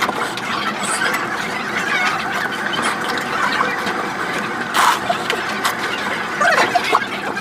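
Close-up slurping and chewing of jjajangmyeon noodles in black-bean sauce, a continuous wet mouth sound with small clicks and a short louder slurp about five seconds in.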